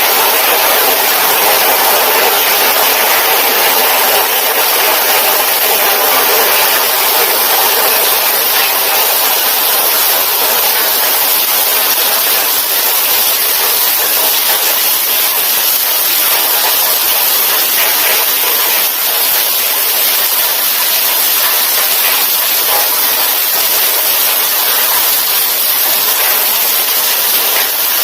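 Heavy rain pouring down steadily, a loud even hiss with no let-up.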